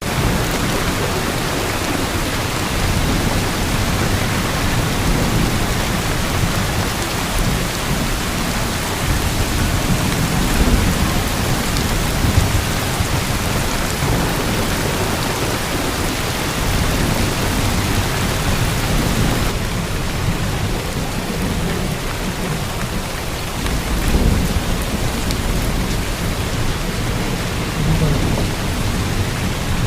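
Heavy monsoon rain pouring down steadily, with a deep rumble beneath the hiss of the downpour.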